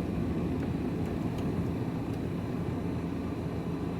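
Vehicle engine running steadily with road noise, heard from inside the cab.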